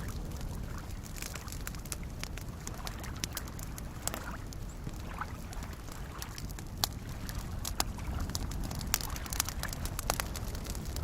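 Campfire crackling, with irregular sharp pops that grow louder in the second half, over the steady low wash of small lake waves lapping.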